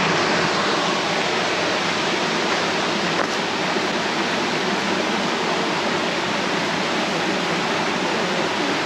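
Mountain stream rushing over rocks: a steady, even roar of running water.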